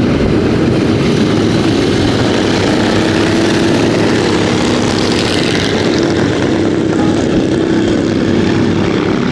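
Motorcycle engine running loud and steady, its pitch holding nearly level.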